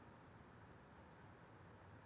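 Near silence: faint, steady wind noise, an even hiss with a low, slightly fluctuating rumble.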